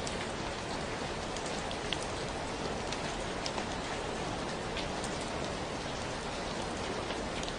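Steady rain falling, an even hiss with scattered louder individual drops.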